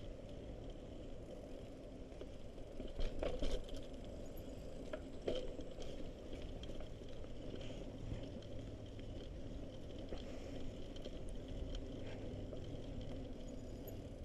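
Mountain bike rolling along a muddy, debris-strewn dirt trail: steady tyre and drivetrain noise, with a cluster of knocks and rattles from bumps about three seconds in and another about five seconds in.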